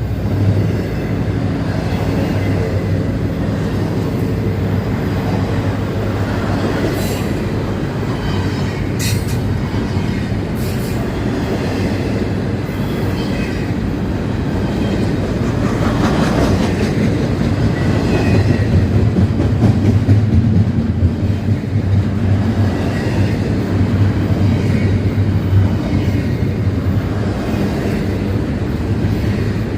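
Norfolk Southern freight train rolling past: a steady rumble of wheels on rail, with a few short clicks and squeals about a third of the way through.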